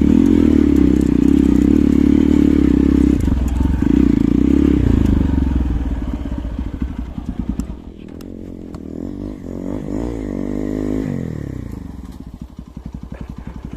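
Hero Xpulse 200's single-cylinder engine running loud under load, then easing off about five seconds in. It revs up and back down once and settles to an even, thumping idle near the end.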